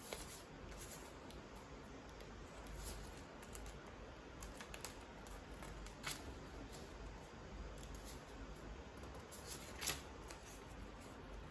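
Paper being folded and creased by hand: soft crinkles and rustles with a few sharp crackles, the clearest about six and ten seconds in, over a faint steady hum.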